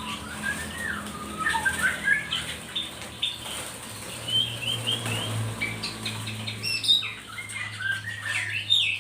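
Many small caged songbirds chirping in short, quick calls that slide up and down in pitch, with wing flutters; the calls grow busier near the end.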